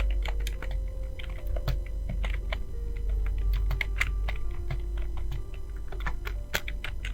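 Fast typing on a computer keyboard: a quick, uneven stream of key clicks, several a second.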